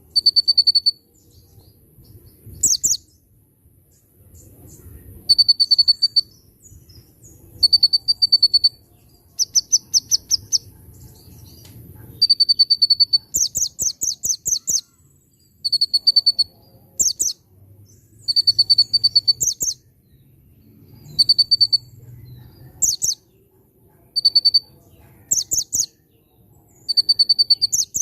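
Male olive-backed sunbird singing in a rich, busy song, its repertoire said to be filled in with bar-winged prinia phrases. Short, even trills on one high pitch, about a second each, alternate with quick runs of sharp, very high notes, a new phrase coming every two or three seconds.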